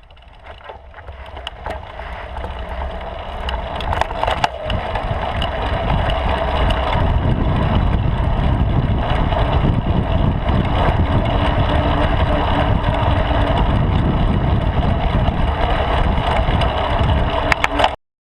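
Rumble and wind rush from a bicycle in motion, picked up by a handlebar-mounted action camera, with tyre noise and occasional sharp knocks and rattles from the bike over bumps. It grows louder over the first several seconds, then holds steady and cuts off suddenly near the end.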